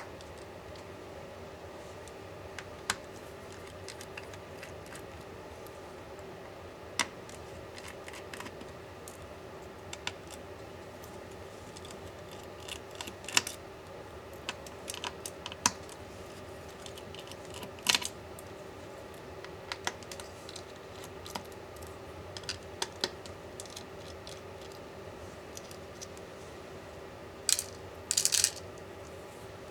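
Scattered light clicks and small metallic clinks of tools and tiny parts being handled while taking apart an Apple MacBook Pro 16-inch (2021) laptop, with a loud cluster of clicks near the end. A faint steady hum runs underneath.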